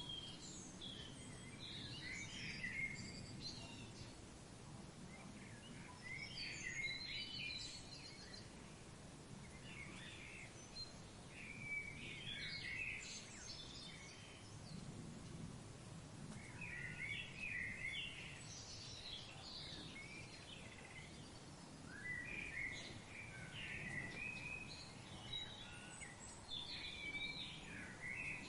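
Birds singing in short bursts of twittering and chirping phrases that come every few seconds, over a steady low background rumble.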